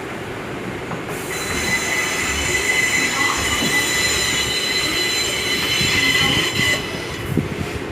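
Steel train wheels squealing against the rails: a high, ringing squeal that sets in about a second in and stops near the end, over the low rumble of a moving train.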